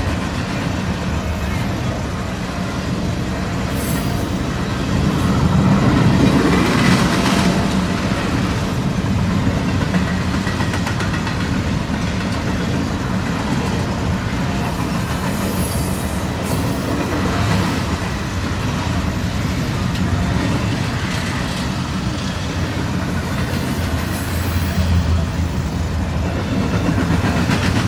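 Freight train cars rolling by in a steady, continuous rumble, swelling slightly about six seconds in and again near the end.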